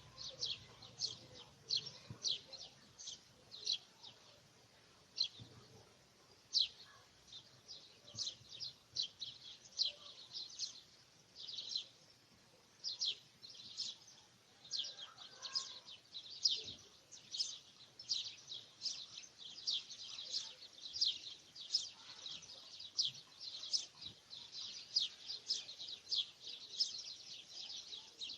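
Birds chirping: short high-pitched chirps, irregular, several a second, with a brief lull about twelve seconds in.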